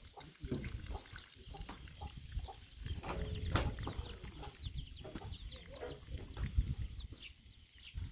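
Birds calling in a run of short, high chirps that fall in pitch, over a low rumble.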